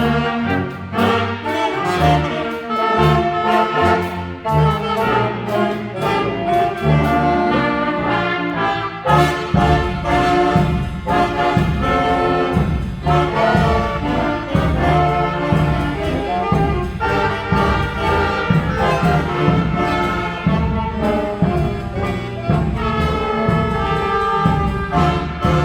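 Instrumental brass-band music, trumpets and trombones playing over a rhythm section. About ten seconds in, the bass fills out and grows busier.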